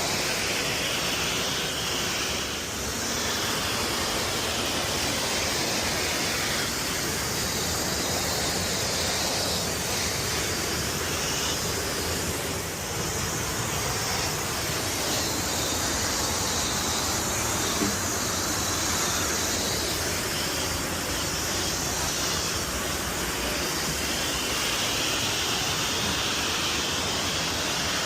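Steady rushing of a waterfall: an even wash of falling water, with one faint tap about eighteen seconds in.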